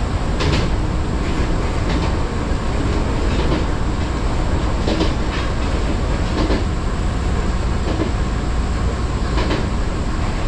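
Fujikyuko Line electric train running along the track, heard from inside: a steady low rumble with sharp wheel clacks over rail joints every second or so.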